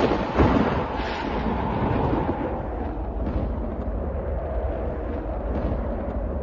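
Thunder: a sharp crack about half a second in, then a long rolling rumble.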